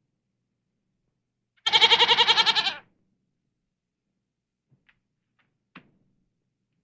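A single animal call lasting about a second, with a fast wavering pulse, followed by a few faint clicks.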